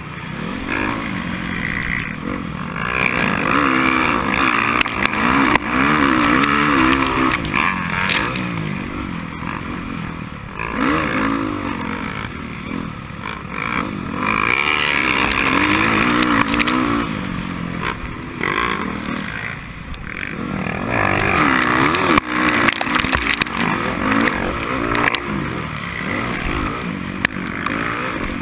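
Racing motorcycle engine at full race pace, its pitch climbing and dropping again and again as the throttle is opened and shut, over constant wind and track noise.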